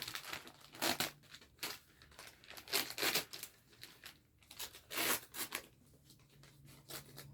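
Wrapping torn open and crumpled by hand, in several short bursts of tearing and crinkling with quieter handling between.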